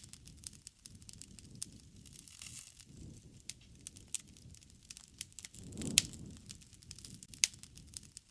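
Campfire crackling: scattered sharp pops of burning wood over a low rumble of flames, with a loud pop right at the start and a swell of rumble and another loud pop about six seconds in.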